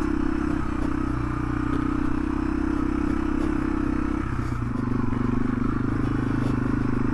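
2018 Yamaha TW200's air-cooled single-cylinder four-stroke engine running steadily while the bike rides a rocky dirt road, its note changing a little over four seconds in.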